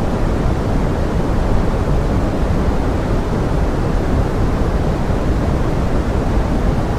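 Pink noise: a steady, even rushing hiss, heavier in the low end, with no change in level.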